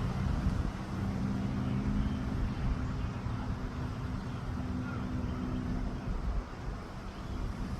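A steady low mechanical hum, like a running engine, under rushing wind noise; the hum fades out near the end.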